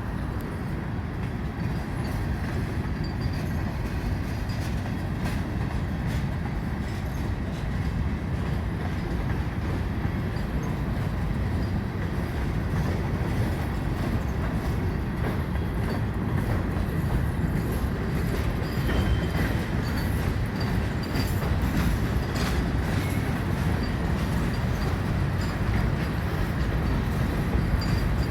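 Long freight train of empty rock cars rolling slowly past while being shoved backwards by its diesel locomotive: a steady low rumble that grows gradually louder, with light clicking of wheels over rail joints.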